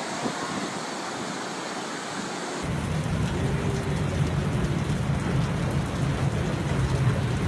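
Steady noise of heavy rain. A little over two seconds in it changes abruptly to a louder downpour with a deep rumble underneath.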